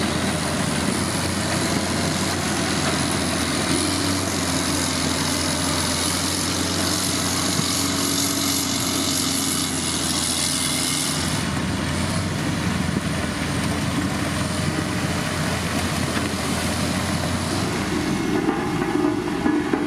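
Heavy diesel road-building machinery running steadily under load. A thin high whine rides over the engine noise, wavering slightly and fading about halfway through.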